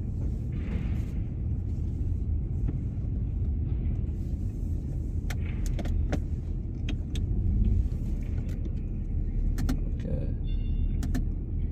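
Car running at low speed, heard from inside the cabin: a steady low engine and road rumble with scattered small clicks and rattles, and a brief high tone about ten and a half seconds in.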